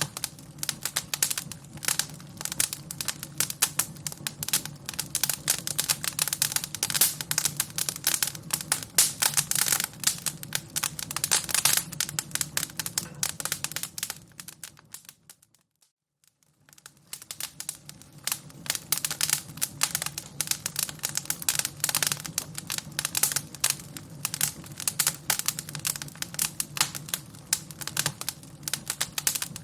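Fire crackling: a dense, irregular run of pops and snaps over a low, steady rumble. The sound fades out to near silence for about a second midway through, then fades back in.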